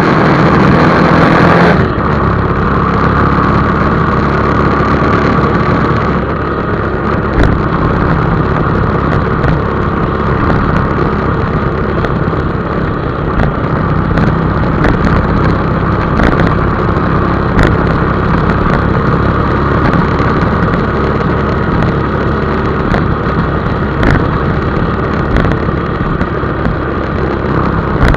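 Motorcycle running steadily on the road, its engine and road noise continuous, with a few sharp clicks scattered through.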